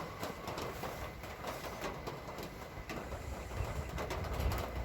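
Light drizzle of rain with scattered drips ticking, and a bird calling now and then. A low rumble, typical of a passing vehicle, builds over the last second or so.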